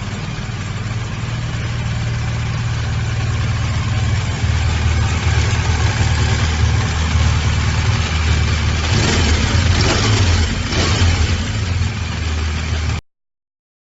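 BMW motorcycle engine running steadily, getting louder about four seconds in, with a short rev near the end before the sound cuts off abruptly.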